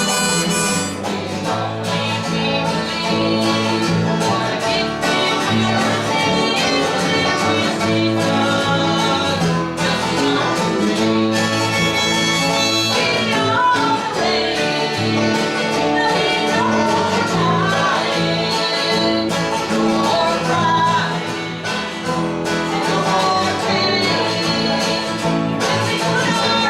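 Live country band playing a song, with strummed guitar over a steady bass line and a wavering lead melody on top.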